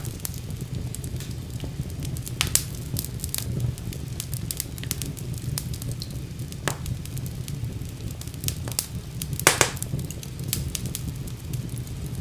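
Wood fire burning in a fireplace, crackling with frequent irregular pops and snaps over a low steady rumble. One pop near the end stands out louder than the rest.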